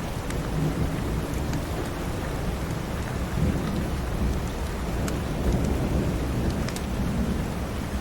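Steady rain with a low rumble of thunder swelling in the middle, and a few sharp crackles from a wood fire.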